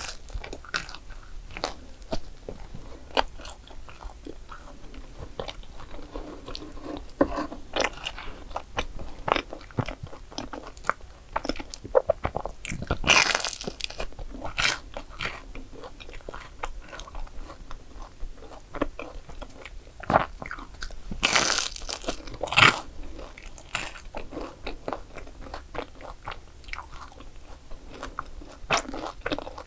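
Close-up crunching and chewing of crisp croffles (croissant-dough waffles), with many small crackling bites. Louder crunches come about 13 seconds in and again about 21 to 23 seconds in.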